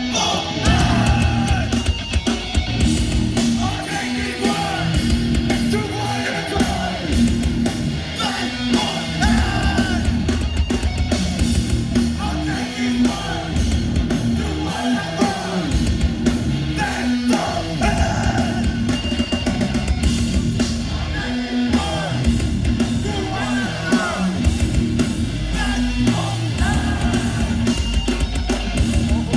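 Live hardcore band playing: distorted guitars, bass and drums with shouted vocals.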